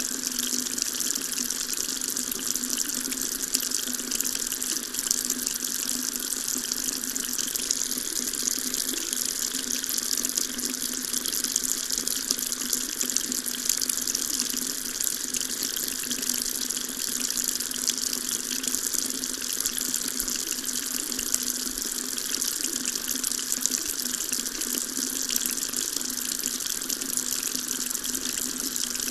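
Water tap running steadily, a continuous hiss of water falling into a sink.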